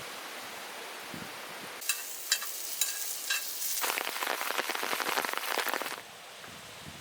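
Food frying over an open fire: a steady sizzle with scattered sharp pops, building into dense crackling about four seconds in, then dropping to a faint hiss near the end.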